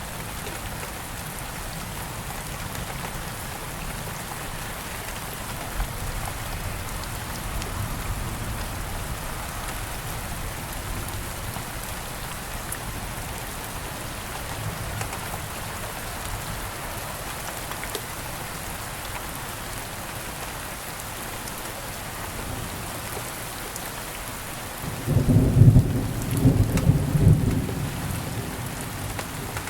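Steady rain falling, with a loud low rumble of thunder about 25 seconds in that lasts around three seconds.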